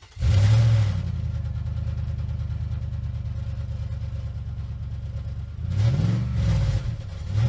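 Car engine starting up with a brief flare about a quarter second in, then idling steadily; it is revved up and back down about six seconds in, and another rev begins near the end.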